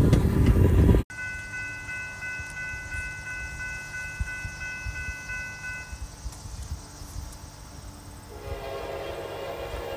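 Train horn sounding a steady chord of three tones for about five seconds, then sounding again near the end with a lower, fuller chord. The first second holds a loud low rumble that cuts off abruptly.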